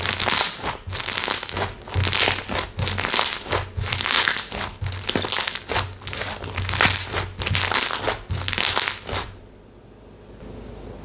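Textured slime squeezed and pressed by hand, giving a crackling, crinkly sound in repeated surges about once a second. It stops about nine seconds in.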